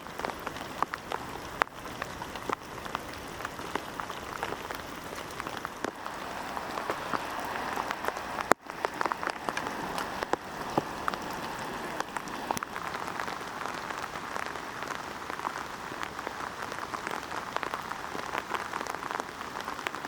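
Steady rain, with many separate drops striking a nearby surface over an even hiss. The sound drops out for an instant about eight and a half seconds in.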